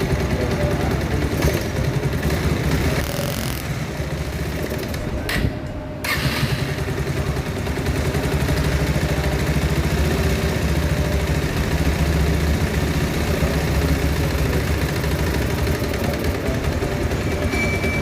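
Bajaj Pulsar 150's single-cylinder engine running steadily, with a brief drop in level about five to six seconds in.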